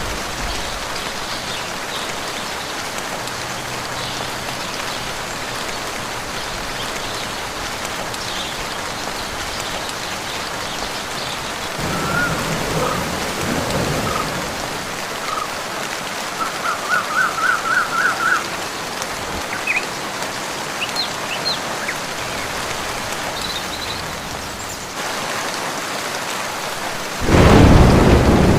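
Steady rain falling in a forest, with a swell of thunder about twelve seconds in and a loud burst of thunder near the end. Midway, a short run of about eight quick repeated calls from an animal sounds over the rain.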